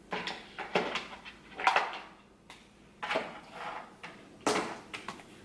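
About five short spritzes from a pump spray bottle of dry hair oil, each a brief hiss, spread a second or so apart.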